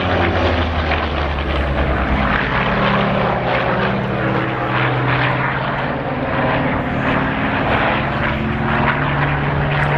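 Douglas AD-4 Skyraider's big radial piston engine droning loudly in a flypast, its low engine note shifting slowly in pitch as the aircraft moves.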